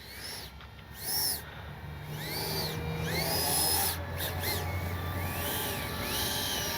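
Short whines from a 12-blade 80mm electric ducted fan on a model jet, each rising and falling in pitch, repeated several times like throttle blips.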